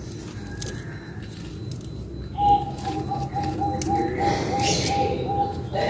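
A bird calling a steady series of short, even notes on one pitch, about three a second, starting a little before halfway in. Beneath it, a brief scraping rustle around the two-thirds mark.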